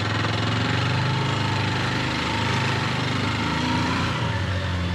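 Honda XR150's single-cylinder four-stroke engine running steadily under load in low gear while climbing a steep sandy path.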